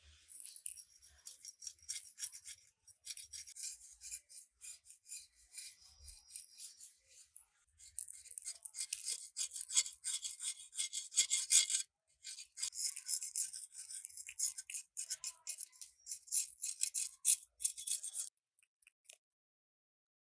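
Rapid, scratchy rasping strokes of a hand tool scraping rusted metal. They come in three runs with short breaks between them and stop shortly before the end.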